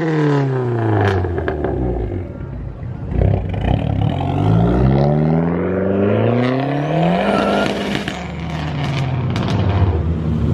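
A car engine at high revs: its pitch falls over the first two seconds, then climbs steadily for about four seconds as the car accelerates, and levels off near the end.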